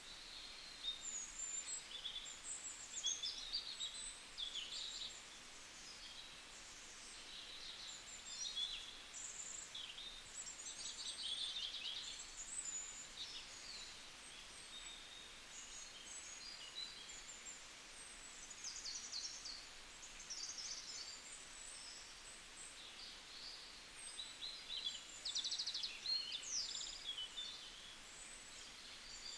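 Several wild birds calling and chirping outdoors, a busy mix of short chirps, whistles and quick trills from more than one bird, over a faint steady background hiss.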